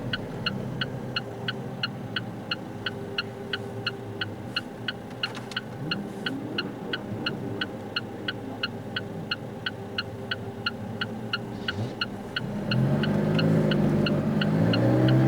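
A car's turn-signal indicator ticking evenly, about three ticks a second, over a low engine drone heard inside the car. About twelve seconds in, the engine gets louder and rises in pitch as the car accelerates.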